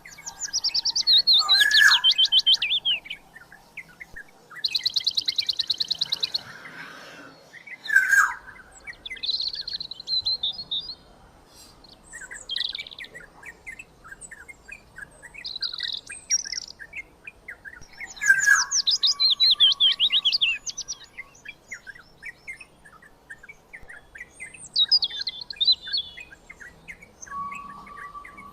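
Black-naped oriole (kepodang) and birds around it calling in the wild: several loud, rapid chattering call series that fall in pitch, with shorter high notes between them, and a lower steady whistle near the middle and near the end.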